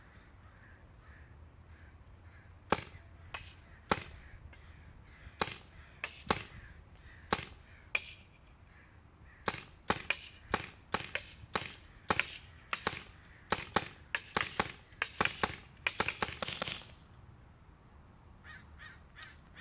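Paintball marker fired with a long barrel inside a suppressor shroud. First come several single shots a second or so apart, then a fast string of shots at about three a second that quickens near the end and stops.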